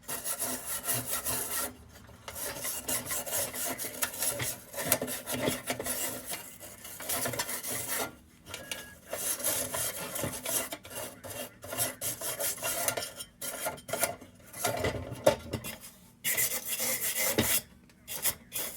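A brush scrubbing the silver spray paint on a metal Dietz Top Lift lantern, breaking off loose chunks so the paint stripper can get at it. Scratchy strokes come in runs of a few seconds with short pauses between.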